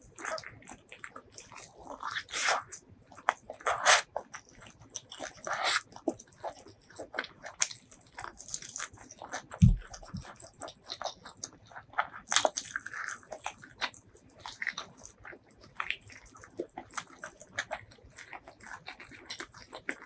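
A person biting and chewing crunchy food: many short crunches and crackles throughout, with a single low thump about ten seconds in.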